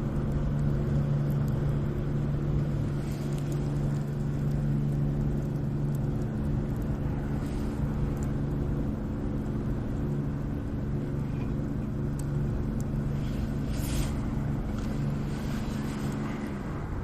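A motor or engine running with a steady hum, which cuts off suddenly near the end, with a few faint crackles over it.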